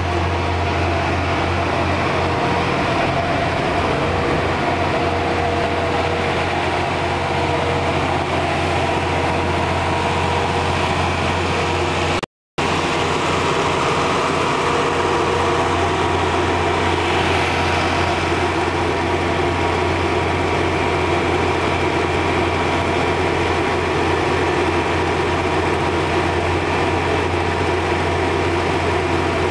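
Train machinery running with a steady low hum and a few steady higher tones; the sound cuts out completely for a moment about twelve seconds in.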